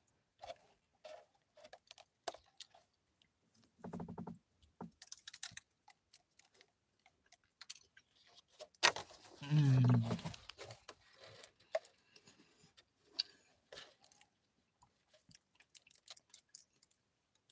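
Close-up chewing and lip-smacking of a man eating soft cake, heard as a scatter of small wet clicks. A short low hum comes about four seconds in, and a louder hum about ten seconds in.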